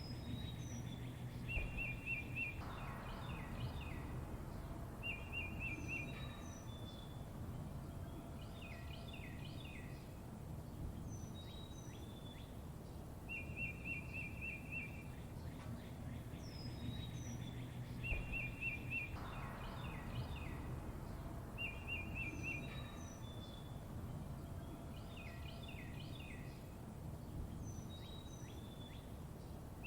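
Songbirds chirping over a steady low background rumble: short rapid trills, falling whistled notes and clusters of quick sweeping chirps, the same run of calls coming round again about every sixteen seconds.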